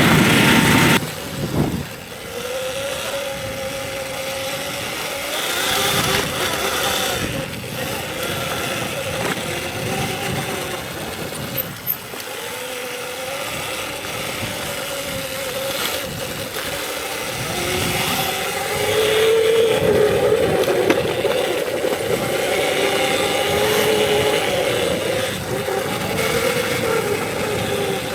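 Electric dirt bike's motor whining as it rides a trail, the pitch rising and falling with the throttle, over a haze of wind and tyre noise. A loud rush of noise fills about the first second.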